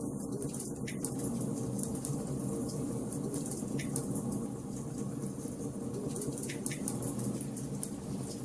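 Wood fire burning in a fireplace: a steady crackle with occasional louder pops.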